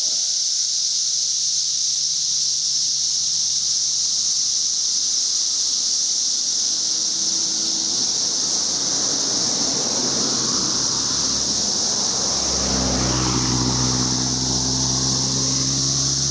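Dense chorus of periodical cicadas calling at once: a loud, unbroken, high-pitched whine that masks everything else. Past the middle a low engine hum with a few steady tones joins in beneath it.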